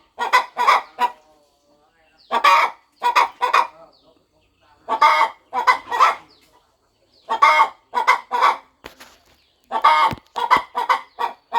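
Hen clucking in regular bursts of three or four clucks, one burst about every two and a half seconds.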